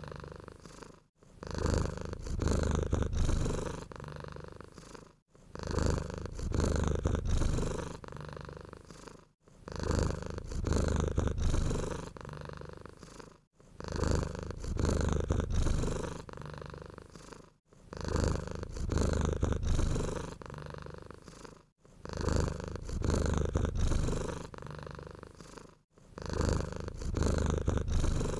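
A domestic cat purring close up. The purr swells and fades in a slow, even rhythm of about one breath every four seconds, with a louder, deeper phase and a softer phase in each cycle and a brief pause between breaths.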